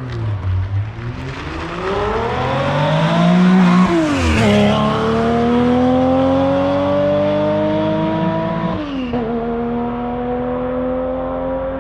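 A car engine accelerating hard, its pitch climbing through the gears with two upshifts, about four seconds in and about nine seconds in, the car pulling away.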